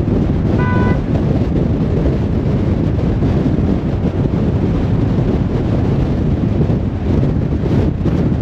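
Steady low rumble of a car driving on a motorway: tyre and engine noise. A short high beep sounds once, about half a second in.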